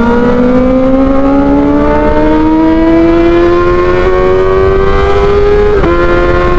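Kawasaki ZX-25R's inline-four engine breathing through an Arrow Pro Race exhaust, pulling hard under acceleration, its pitch rising steadily for about six seconds. It breaks briefly near the end, like a gear change.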